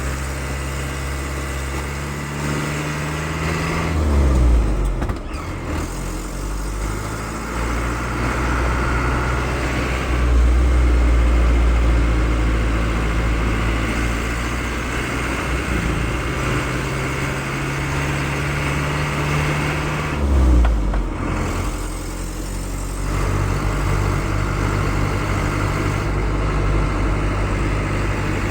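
Pickup truck engine running while driving. The engine note drops off twice, about four seconds in and again about twenty seconds in, then picks up again.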